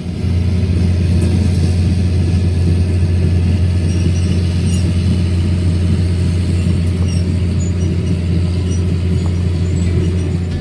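An engine running steadily at a constant speed, a loud deep drone.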